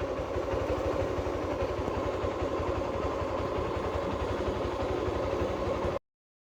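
Vehicle engine running steadily with a fast, even low throb, cutting off abruptly about six seconds in.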